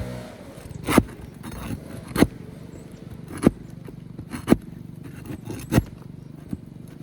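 Roofing tool working under lifted asphalt shingles to get at the nails: about five sharp metallic knocks and scrapes, spaced a second or so apart.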